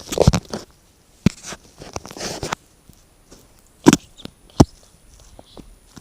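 Unexplained scratching and knocking from inside a chimney: a few short rasping scrapes, then two sharp knocks less than a second apart.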